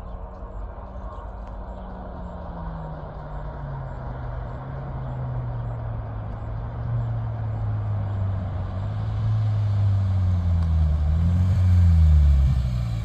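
2025 Ford Explorer Active's 2.3-litre EcoBoost four-cylinder, through an exhaust with Jones Full Boar mufflers and the resonator deleted, heard from outside the vehicle. It grows steadily louder as it approaches and passes close about 12 seconds in, its pitch shifting as it goes by.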